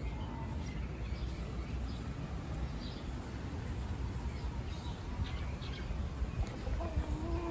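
Birds calling: scattered short, high chirps, then a held, low, fowl-like call that starts near the end.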